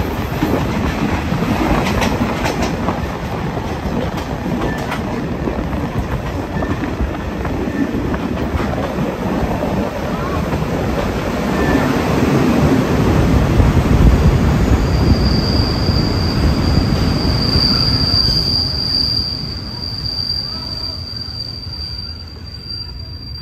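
Passenger train running on the rails: a steady rumble of wheels with clicks over the rail joints. About two-thirds of the way in, a high steady squeal from the wheels sets in, and near the end it fades as the rumble dies down with the train slowing.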